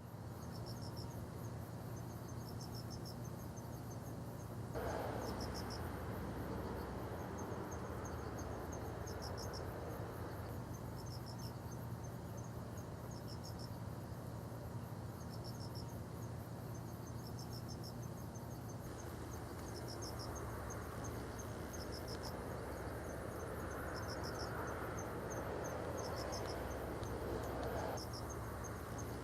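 Insects chirping in short repeated trills, about one group a second, over a steady low rumble that swells after about five seconds and again near the end.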